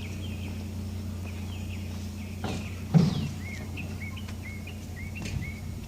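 A bird repeating short chirps, about two a second, over a steady low hum, with one loud knock about three seconds in.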